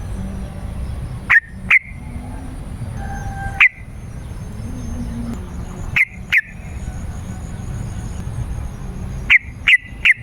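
Yellow-vented bulbul (trucukan) calling: short, sharp, loud notes in twos and threes every few seconds, over a steady low background hiss.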